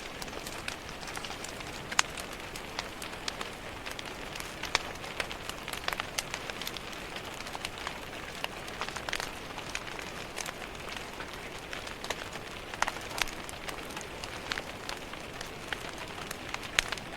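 Steady rain pattering on a window, with a fireplace crackling in irregular sharp pops throughout.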